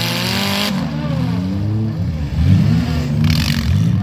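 Car engine revving up and down over and over as the stripped, roll-caged car spins its wheels and slides in the snow. It gets louder about halfway through, and there is a short hiss about three seconds in.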